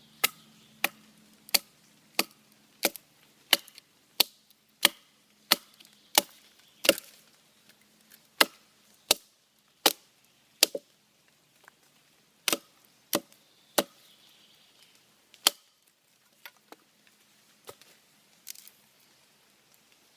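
Wood being chopped and split with a bushcraft knife: a steady run of sharp wooden knocks about one and a half a second. After about eleven seconds the knocks come sparser and more irregular.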